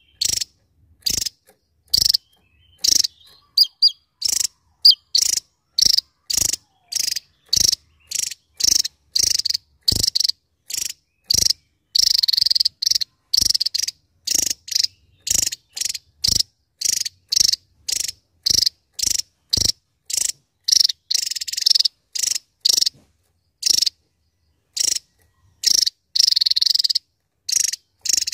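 Javan tesia singing: a rapid run of short, high-pitched notes, one to two a second, with brief gaps between them.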